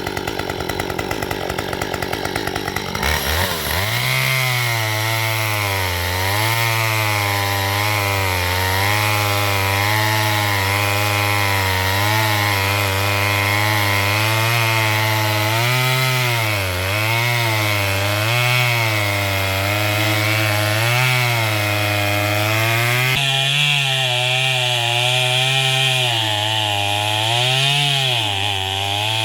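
Two-stroke gas chainsaw throttled up about three seconds in and cutting into a log, its engine pitch dipping and recovering again and again as it bogs under load in the cut.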